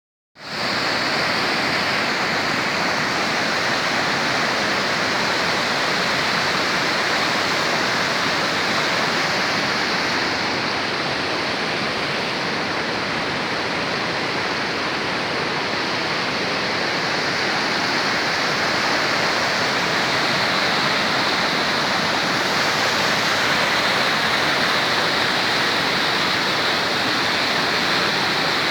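Rushing water flowing steadily, an even noise without breaks that starts about half a second in.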